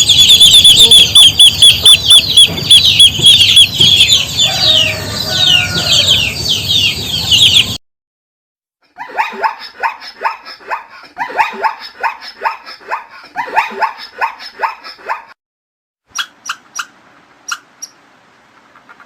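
Animal calls in three short clips split by abrupt cuts. First comes a loud, dense, rapid high-pitched chirping. Then, after a second of silence, a run of rhythmic calls about three to four a second. Then a few sharp, scattered calls.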